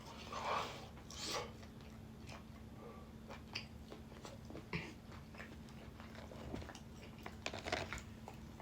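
A person chewing and biting into chicken wings close to the microphone: scattered wet smacks and small crunches over a faint steady hum.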